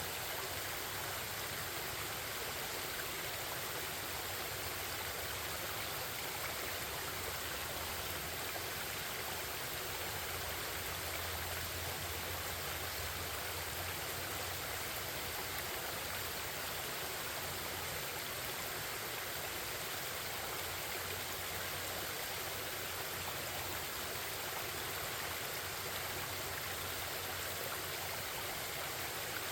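Forest stream babbling, a steady, even rush of running water.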